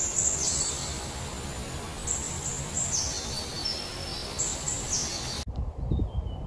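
A small bird giving high, thin whistled calls three times, each call stepping down in pitch, over a steady background hiss. Near the end the sound cuts abruptly to faint chirps and a few low thumps.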